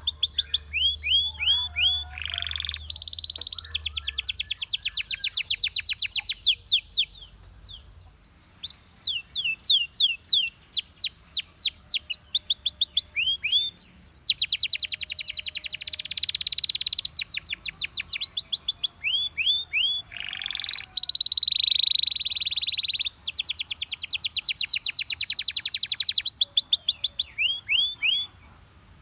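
Belgian canary singing: fast trills of repeated notes and sweeping whistles, with a short pause about seven seconds in.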